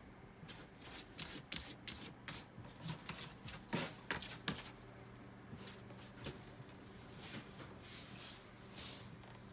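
Faint scattered rustles and light clicks over a low steady hum, with two sharper ticks about four seconds in.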